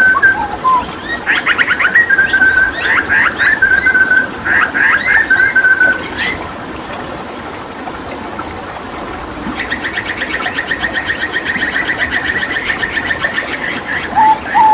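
Hooded butcherbird singing: a run of sharp whistled notes with quick upward flicks, then after a pause a long, fast rattling trill and two short lower notes near the end, over a steady background of running water.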